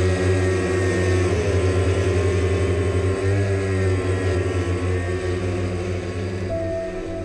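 An aircraft droning steadily overhead, its pitch shifting slightly, fading toward the end.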